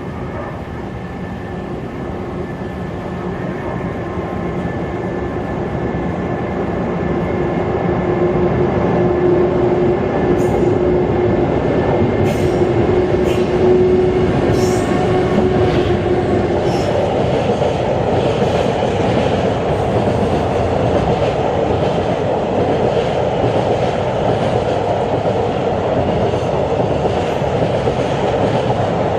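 Freight train approaching and passing, louder over the first eight seconds, with a steady hum from the locomotive, then wagons rumbling past with wheels clacking over the rail joints.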